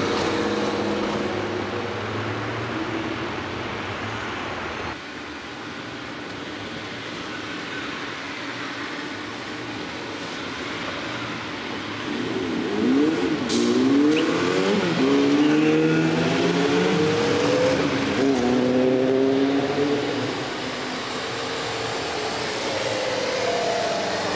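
Motor vehicle engines running. About halfway through, an engine's pitch rises and falls repeatedly as it revs for several seconds.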